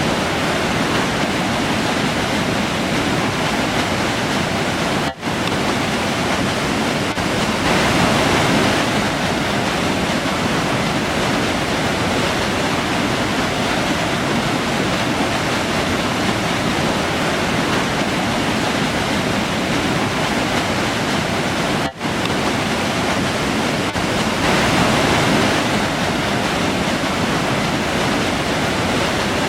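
River rushing steadily, a continuous loud roar of flowing water. The sound drops out for an instant twice, about five seconds in and near the twenty-two-second mark.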